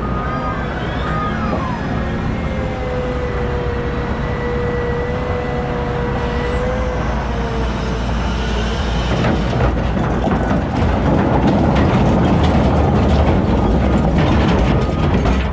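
Caterpillar 972M XE wheel loader working, its diesel engine running with a steady whine for several seconds. About nine seconds in it gets louder and rougher, with clattering and rattling. A reversing alarm beeps briefly at the very start.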